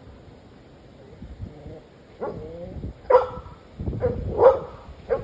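Dog barking several times, starting about two seconds in, over a low rumble of strong wind on the microphone.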